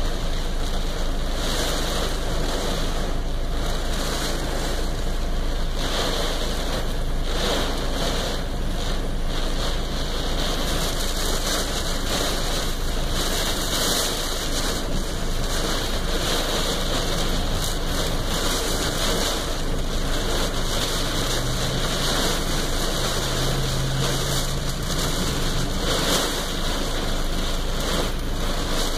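Heavy rain and gusting wind beating on a car, heard from inside the cabin: a dense, steady rush that swells briefly every few seconds as gusts drive the rain against the glass and body.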